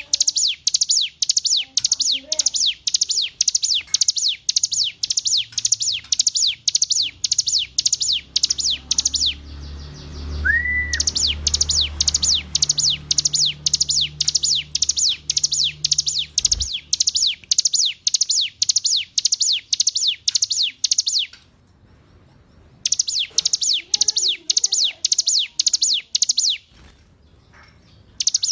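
Ciblek gunung, a prinia, singing: long runs of sharp, high, downward-sweeping chirps repeated about three a second, broken by short pauses. A low hum sounds under the song for a few seconds about a third of the way in.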